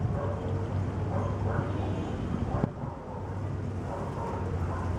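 A steady low hum under faint, indistinct voices, with one sharp click about two and a half seconds in, after which the sound briefly drops quieter.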